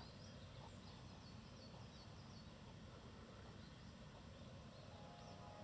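Faint outdoor ambience with a low steady rumble and a bird chirping quietly, a quick run of short falling chirps in the first half.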